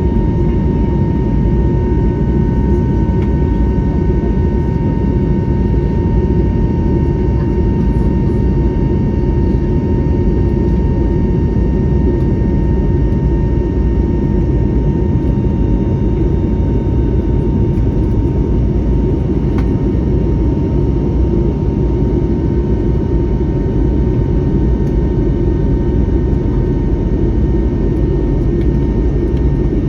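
Steady jet-engine cabin noise aboard an Airbus A321neo with Pratt & Whitney PW1100G geared turbofans: an even low roar with a thin, steady whine over it.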